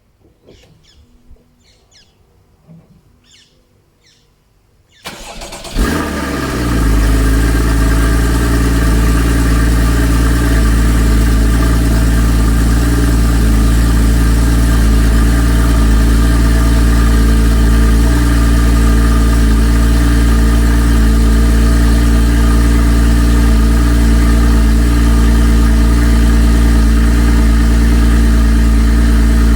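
Porsche Cayman S 981's 3.4-litre flat-six cold-starting: it catches about five seconds in with a short flare, then settles into a steady cold-start idle.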